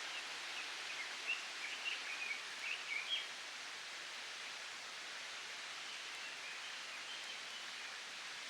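Outdoor mountain ambience: a steady hiss with a bird chirping in short twittering phrases about a second in, then more faintly near the end.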